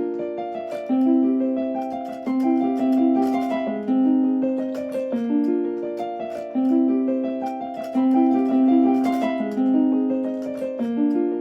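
Kanazawa Station train-approach melody: a short, gentle chime tune in a bright plucked, harp- or electric-piano-like tone, its phrase repeating.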